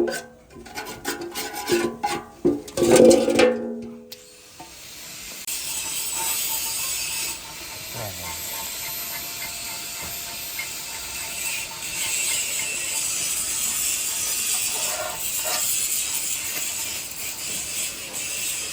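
Plucked-string music stops about four seconds in, giving way to a steady high scraping hiss of a tool working on metal engine parts, rising and falling a little in strength.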